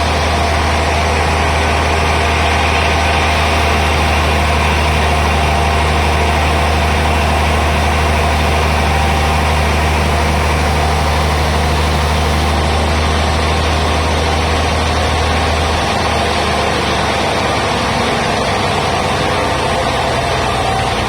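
Heavy sawmill machinery running steadily: a deep, even hum under a noisy rush. The deep hum breaks up and drops away about 16 seconds in.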